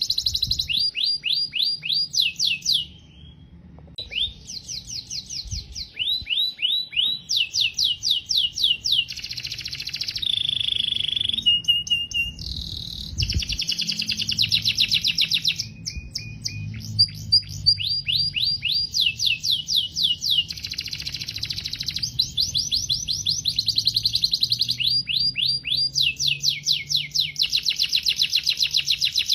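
Domestic canary singing a long, continuous song of rapid trilled phrases: fast runs of repeated down-slurred notes that change pace and pitch from phrase to phrase, with a brief pause about three seconds in.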